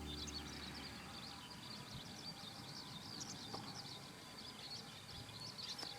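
Small birds chirping faintly: many short, quick high chirps overlapping, as the tail of a music track fades out in the first moment.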